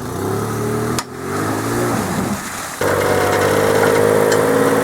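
Off-road 4x4 engine running, with a sharp click about a second in; a little before halfway the engine sound jumps abruptly louder and holds a steady note.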